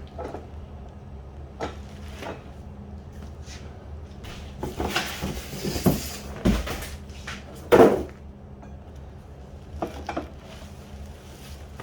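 Handling noise from unpacking a boxed pressure washer unit: scrapes, rustles and knocks. A heavy thump comes about six and a half seconds in, and a loud knock follows near eight seconds.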